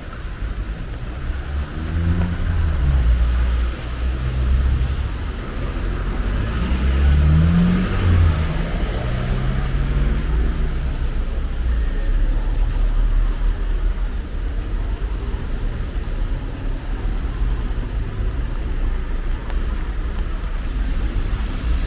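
Car traffic on a wet street. Engines rumble and rise in pitch as cars accelerate past in the first half, over a steady hiss of tyres and rain.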